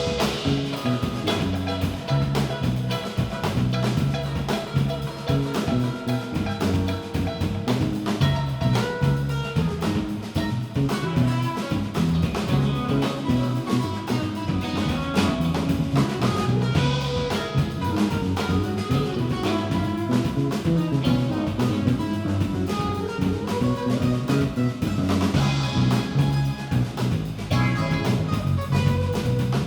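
Live band playing an instrumental passage, led by drum kit and guitar.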